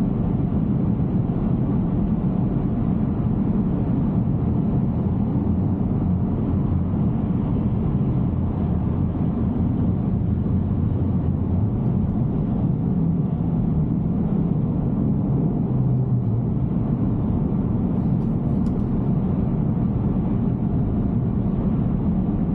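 Steady road noise from a Tesla Cybertruck cruising at about 70 mph on wet pavement: a constant low tyre rumble and hiss with no engine note, since the truck is electric.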